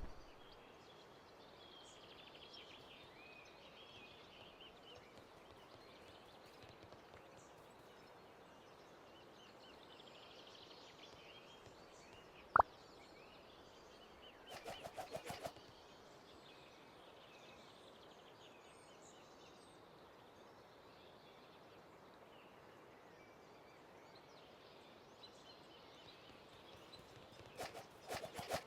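Faint outdoor ambience with distant birds chirping. A single sharp click comes about midway, then a short rapid rattle of clicks, and a run of clicks starts near the end.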